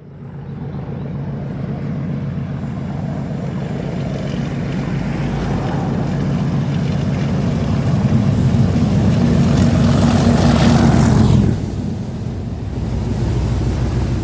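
Network Rail test train passing close by: a steady engine hum under a growing rumble of wheels on the track. It is loudest about eleven seconds in, then falls off sharply.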